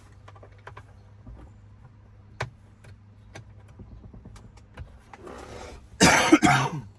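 Scattered small clicks and taps of hands working at a truck's steering wheel trim, over a low steady hum. Near the end comes a loud, rough, growl-like burst of under a second.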